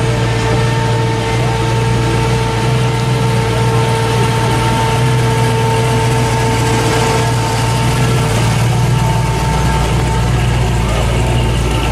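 Hot-rodded 1940s sedan's engine running at low speed with a steady low exhaust note as the car rolls slowly past. A steady higher hum rides over it and fades out near the end.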